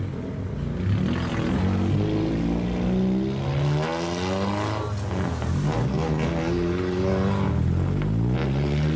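Cars driving off one after another at close range, each engine's note rising as it accelerates away; a light truck's engine pulls through near the end.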